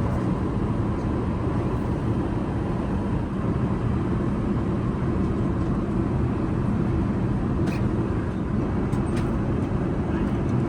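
Steady low rumble of cabin noise aboard an Airbus A380 airliner, with a faint steady whine and a few light clicks late on.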